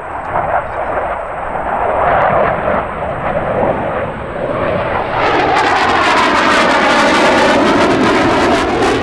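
F/A-18 Hornet fighter jet flying past on afterburner, super loud. Its jet noise builds and about five seconds in swells into the sweeping, phasing rush of the jet passing close by.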